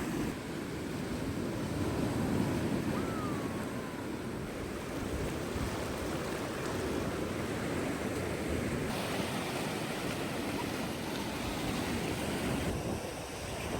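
Sea waves washing onto a beach, with wind rumbling on the microphone; the sound shifts abruptly about nine seconds in and again near the end.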